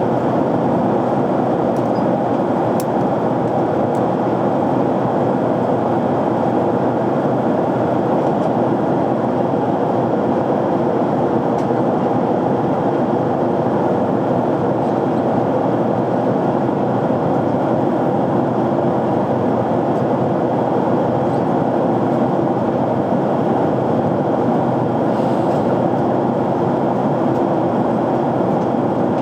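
Steady cabin noise of a jet airliner in flight: an even, unbroken rush of airflow and engine noise heard from inside the cabin.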